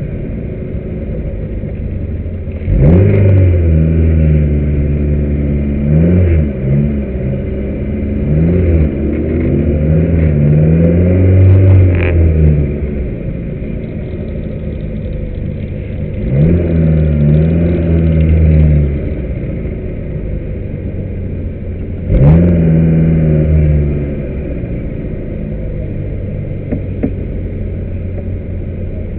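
Car engine heard from on board, pulling hard through its revs several times with sharp climbs in pitch, dropping back to a lower steady drone between pulls.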